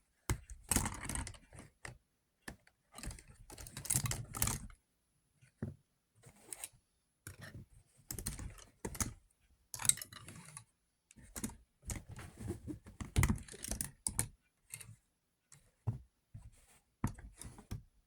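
Plastic K'nex pieces clicking, snapping and rattling in irregular bursts as a K'nex V-twin engine model is taken apart by hand.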